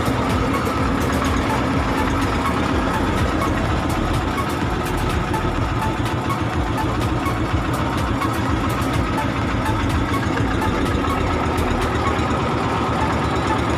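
Boat engine running steadily at a constant speed, a continuous low drone.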